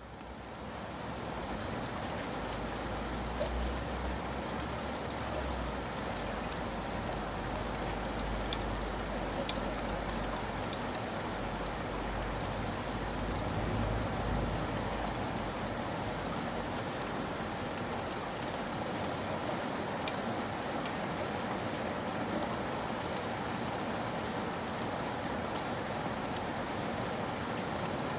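Steady rain with scattered individual drops ticking through it, rising out of silence just as it begins, with a faint low rumble underneath for roughly the first half.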